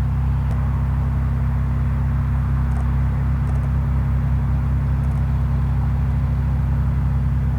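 Steady low rumble, even throughout.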